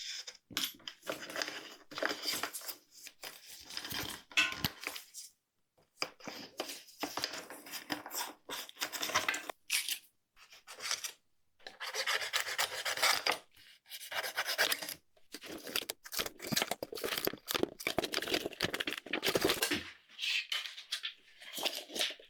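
Bicycle brake parts and small metal tools being handled: irregular clinking, scraping and rubbing in short bursts with brief pauses.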